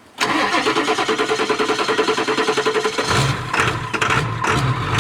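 Truck engine cranking on the starter with an even, pulsing rhythm for about three seconds, then catching about three seconds in and running on at idle.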